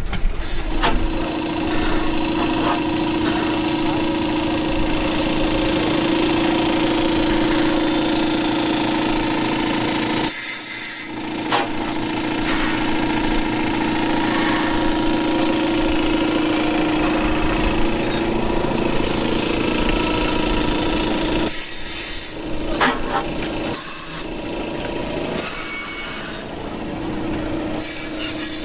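Antique machinery running steadily with a held drone, in several segments joined by abrupt cuts. Near the end come a few short, high, arching whistle-like tones.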